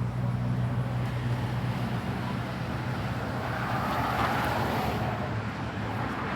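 A motor vehicle engine running steadily with a low hum. A broad hiss swells about four seconds in.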